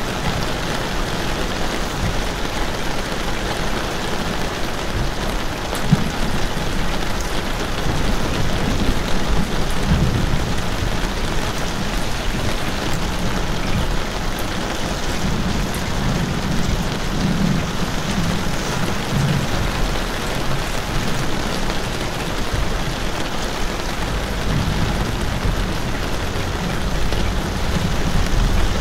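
Steady rain falling, a dense even hiss, with low rumbles coming and going underneath.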